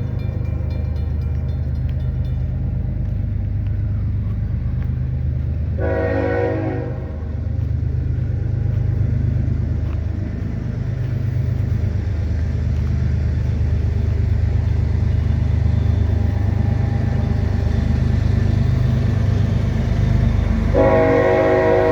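Diesel locomotives of a six-engine Norfolk Southern freight train rumbling steadily. A horn chord of several tones sounds in one short blast about six seconds in, and a second blast starts near the end.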